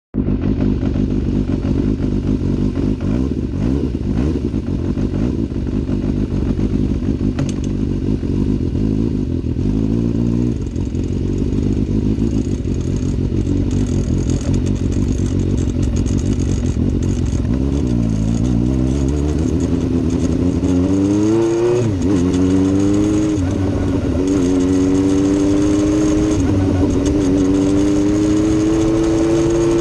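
A vehicle engine running under way, its pitch climbing and dropping back at several gear changes in the second half, with an unexplained rattle the owner is trying to diagnose.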